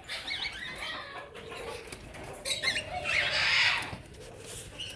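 Aviary birds chirping in short wavering calls, with a louder noisy rush lasting under a second about three seconds in.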